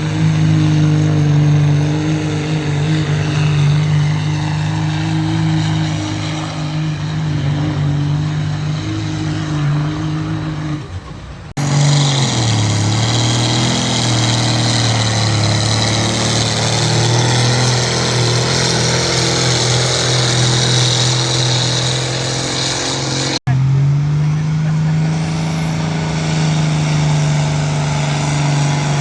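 Engines of pulling vehicles running loud and steady under load, in three stretches joined by abrupt cuts about 12 and 23 seconds in.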